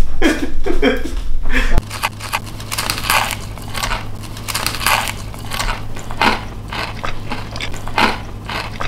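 Close-up crunching of crispy fried chicken breading as a person bites into and chews a fried chicken sandwich, a string of irregular crunches one after another.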